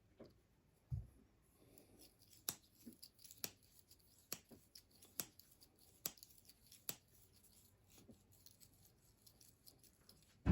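Blade of an old Case slimline trapper pocketknife being worked open and shut, its backspring snapping it with sharp clicks about once a second, the joints freshly worked with mineral oil. A dull thump about a second in.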